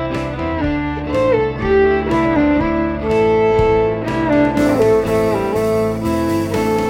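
Instrumental break of a traditional folk song: a fiddle plays the melody over strummed acoustic guitar.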